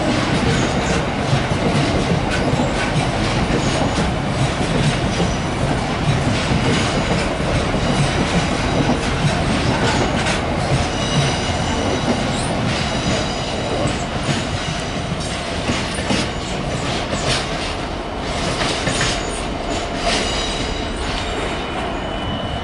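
Freight train of open box wagons rolling past close by: a steady rumble of steel wheels on rail with repeated clicks over the rail joints. From about halfway a faint high wheel squeal joins in, and the sound eases off slightly near the end.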